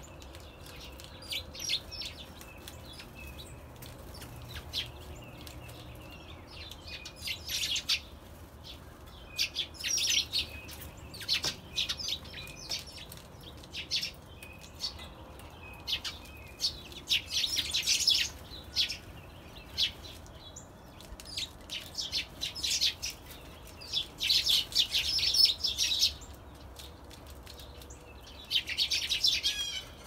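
Small birds chirping in short, high calls that come in quick bursts, several times building into denser runs of twittering.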